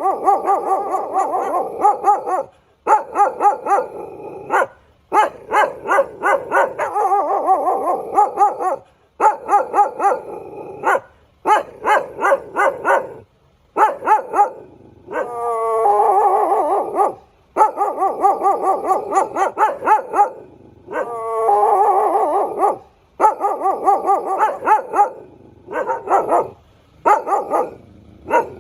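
A dog barking and yipping in long runs of rapid barks, broken by short pauses and a few drawn-out, howl-like cries.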